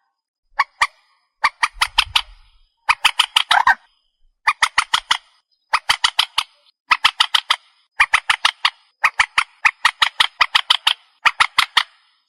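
Trích ré, a Vietnamese rail-family waterbird, calling over and over in a lure-call recording: short bursts of rapid harsh notes, about a second apart.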